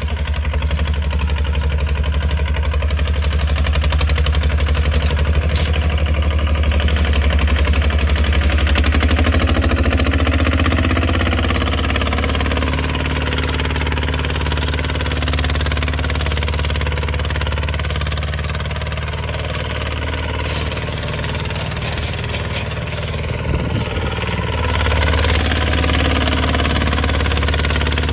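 Kubota RT155 single-cylinder diesel engine of a farm tractor running steadily, a little quieter from about ten seconds in and picking up again near the end.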